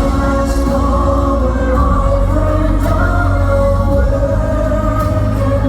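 Male vocal quartet singing long, held notes in harmony over loud backing music, in a live performance.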